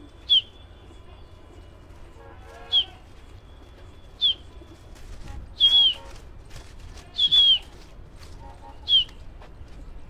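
A bird chirping six times: each chirp is a sharp, short, high note that drops slightly in pitch, spaced about a second and a half apart.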